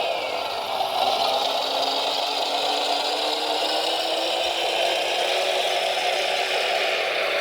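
Whine of the electric motors and gearboxes of radio-controlled model construction vehicles working, with some rattling; the whine rises slowly in pitch.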